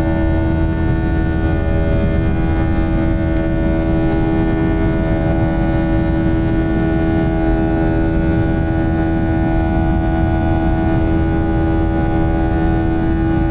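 The A321's two IAE V2500 turbofan engines running at high thrust, heard inside the cabin as a steady, loud drone: a low rumble under a stack of level tones, the buzzsaw sound of the engine fans.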